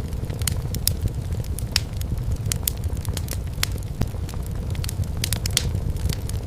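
Wood fire in a fireplace crackling, with frequent irregular sharp pops and snaps over a steady low rumble of the burning logs.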